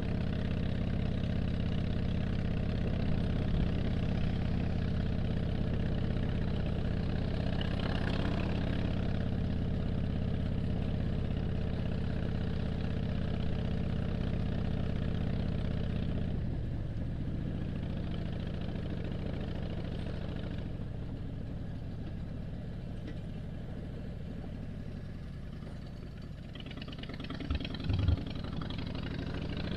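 2007 Harley-Davidson Dyna Street Bob's air-cooled Twin Cam 96 V-twin, heard from the rider's helmet while riding. It runs at a steady cruising drone for about the first half, then grows quieter as the bike slows. Two brief knocks come near the end, and then the engine note rises as it accelerates again.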